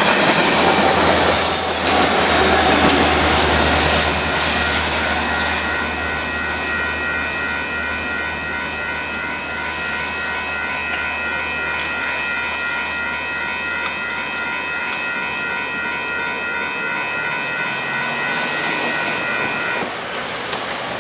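The tail of a Union Pacific freight train, a rear locomotive behind the last cars, running over the grade crossing with a low engine hum and wheel clatter that fades after about four seconds. A steady, rapidly pulsing ringing, typical of a crossing warning bell, carries on after the train and stops about a second before the end, as a pickup truck drives over the crossing.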